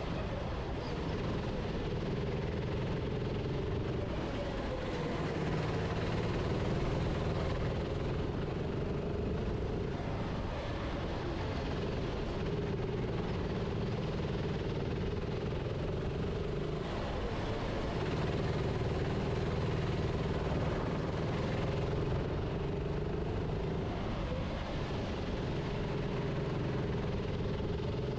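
Racing kart's engine running hard, its pitch dipping and rising again every few seconds as it lifts and accelerates through corners, over a steady rushing noise.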